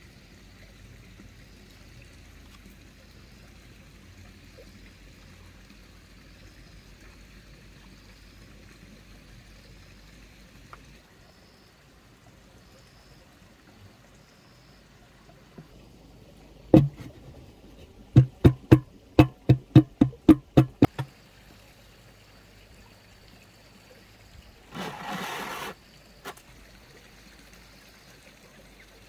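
Hand hammer striking iron on an anvil at a forge: one blow, then a quick run of about ten blows, about three a second. A few seconds later comes a one-second hiss, over a faint steady background.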